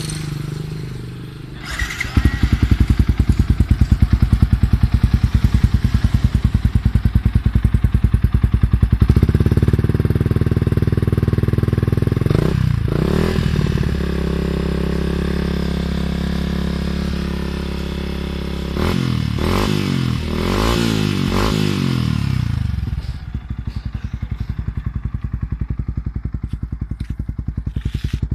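Yamaha Vixion single-cylinder four-stroke motorcycle engine through a racing-type exhaust. It starts about two seconds in and idles with an even pulsing beat, then holds a higher idle with a few quick blips of the throttle. It drops back to a slow idle near the end.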